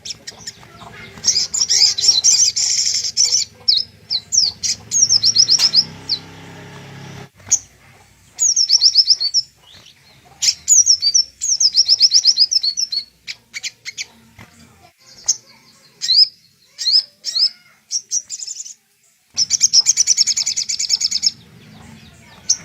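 Sogok ontong (little spiderhunter) calling: bursts of rapid, high, chattering trills and quick upslurred notes, repeated with short pauses between them.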